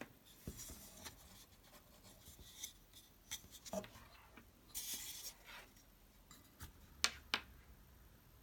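Small hard parts being handled at close range: scattered clicks and taps with short scraping and rubbing sounds, and two sharp clicks near the end.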